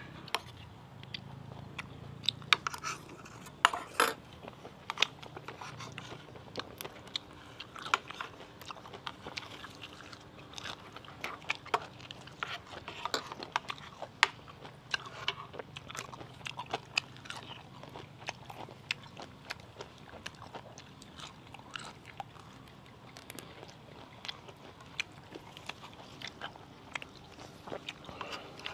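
Close-miked eating sounds: a person crunching and chewing mouthfuls of spicy pounded santol salad with raw leafy greens, with irregular sharp crunches scattered throughout.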